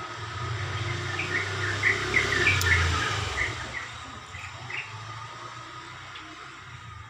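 Yellow-vented bulbul (trucukan) calling in a run of short, quick chirps, over a low vehicle rumble that swells to a peak about two to three seconds in and then fades away.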